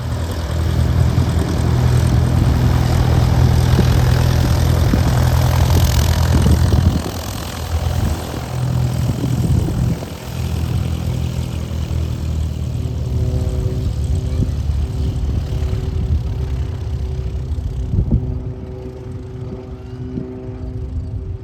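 Single-engine propeller light aircraft's piston engine running, loud for the first seven seconds or so, then dropping to a quieter steady drone.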